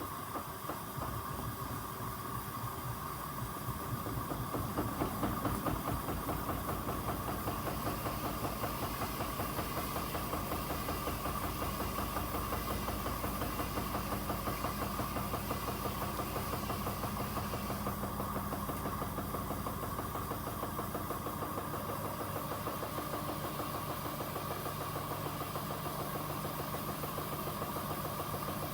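Washing machine drum turning steadily under motor power, with a fast, even thrumming and a steady whine. It gets louder about four seconds in, then holds level.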